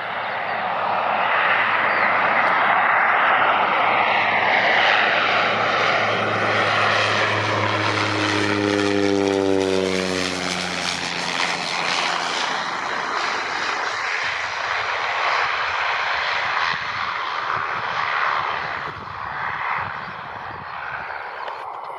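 Propeller airplane passing close by. Its engine and propeller tone drops steeply in pitch as it goes past about nine seconds in, then settles into a rushing noise that eases off near the end.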